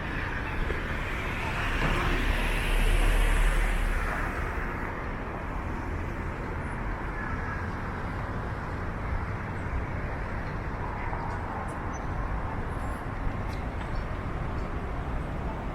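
City street traffic running steadily, with one vehicle passing close by and growing loudest about one to four seconds in.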